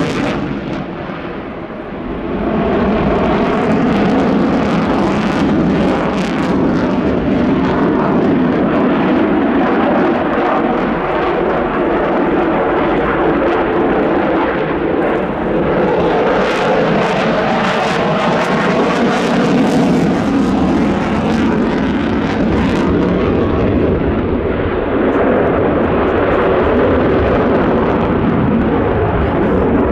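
Jet noise from a Boeing F-15QA's twin General Electric F110 engines during a display flight: loud and continuous. It is quieter for the first two seconds, then swells and stays high with slow rises and falls.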